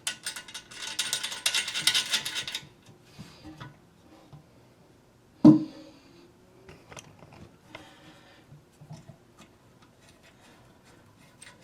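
Small metal toilet-tank bolt hardware (washers and nut) clinking and rattling for about two seconds as it is handled and fitted, then scattered light clicks and one sharp knock about five seconds in.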